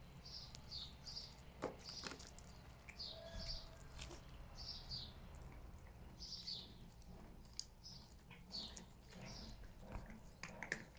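Small birds chirping over and over in short, high chirps, often in pairs, with a few sharp clicks.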